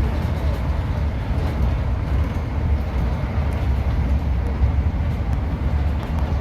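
Steady low rumble of a Class 150 diesel multiple unit running along the line, heard from inside the carriage, with faint light clicks from the wheels on the rails.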